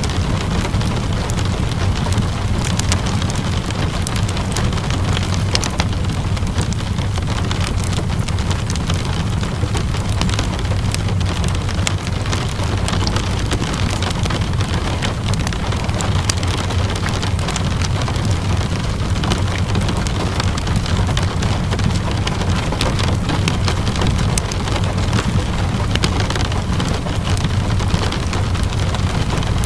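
Steady rainfall with a low rumble, mixed with the scattered crackles and pops of a wood fire burning in a fireplace.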